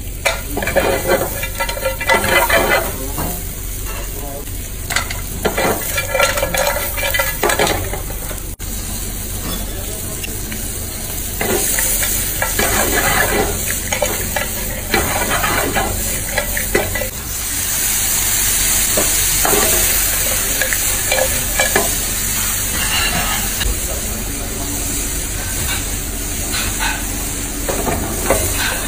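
Seafood frying in hot oil in a non-stick pan: separate bursts of sizzling in the first few seconds as raw crab pieces go in, then a denser, louder sizzle from about twelve seconds in as crab, shrimp and mussels cook together.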